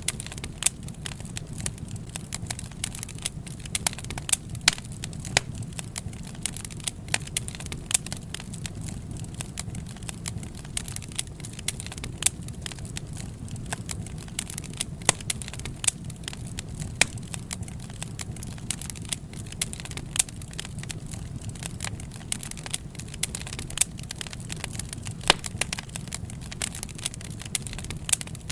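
Wood fire crackling: frequent, irregular sharp pops and snaps over a steady low rumble of the burning flames.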